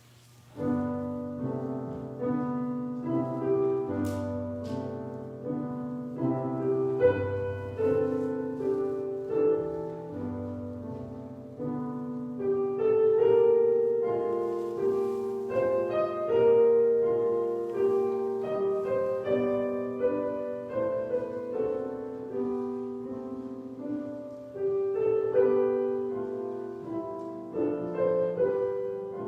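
Piano playing a slow, chordal prelude, starting about half a second in.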